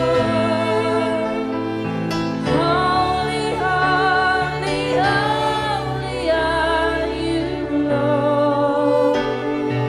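Live worship music: sustained chords under a singing voice whose melody bends and wavers, with no clear words.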